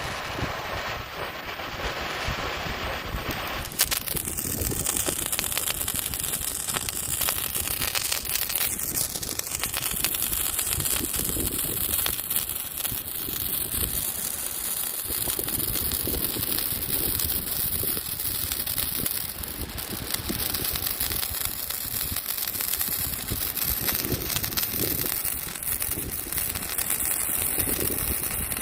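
Handheld colour-changing spray firework burning with a steady rushing hiss and faint crackle.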